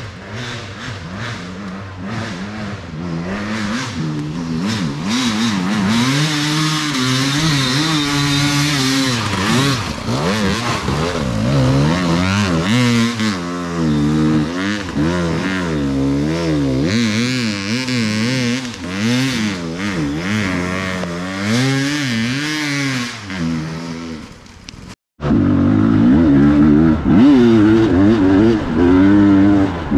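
Enduro motorcycle engine being ridden hard, revving up and down with its pitch rising and falling every second or so. Near the end it cuts out for a moment and comes back louder.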